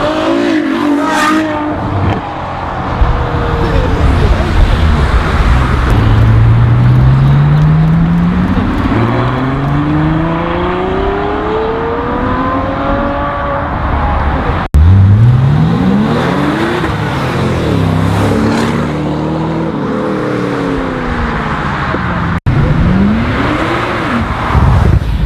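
High-performance sports car engines revving and accelerating: one long climb in pitch through the middle, then a run of quick revs rising and falling. The sound cuts off abruptly twice.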